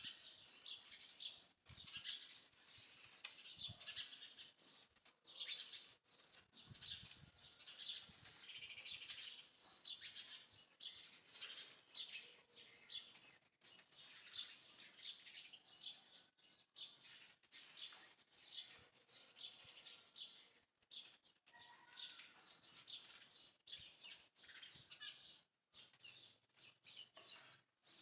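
Faint, continuous chirping of small birds: many short, high notes in rapid succession.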